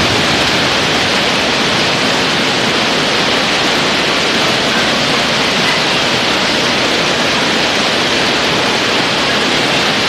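Heavy downpour of rain and hail falling hard: a steady, dense hiss that does not let up.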